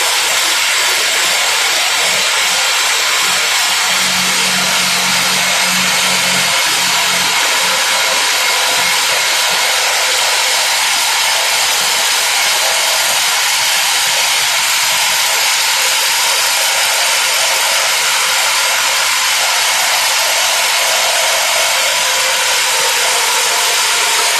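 Simba S7D long-hole drill rig's top-hammer rock drill drilling into rock on T-38 rods with a 64 mm bit: a loud, steady, hissing hammering that starts abruptly and holds at one level.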